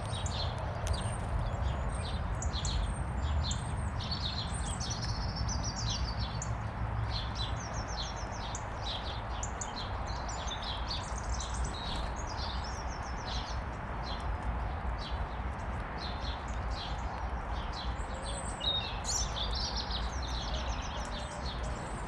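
Small garden birds chirping and calling, many short high calls and brief trills, over a steady low background rumble.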